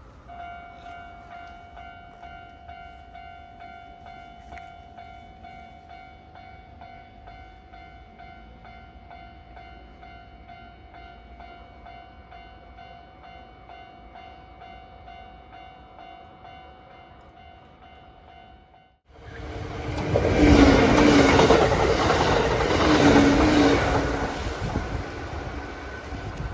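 Japanese level crossing's electronic warning bell ringing steadily. About two-thirds of the way in, a Kintetsu train takes over abruptly and passes loudly, its wheels clacking regularly over the rail joints, with the bell still faintly audible at the end.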